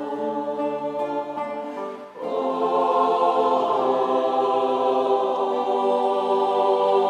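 A choir singing in several parts, breaking off briefly about two seconds in and then holding a louder, long final chord.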